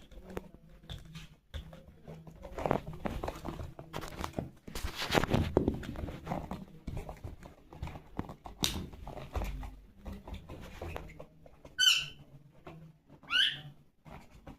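Pet parrot giving two short, shrill squawks near the end, each rising in pitch, after a stretch of rustling and light knocking.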